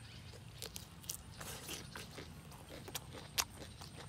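Close-up eating sounds of a person biting and chewing shrimp: a scatter of short crunches and wet clicks, with one louder crunch about three and a half seconds in.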